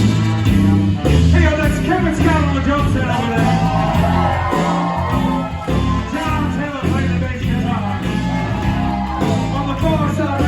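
A live band playing loud rock music, with singing over the bass and drums.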